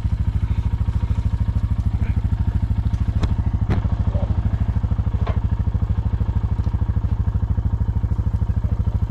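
An engine idling steadily with a fast, even low throb. A few light knocks come through about three to five seconds in.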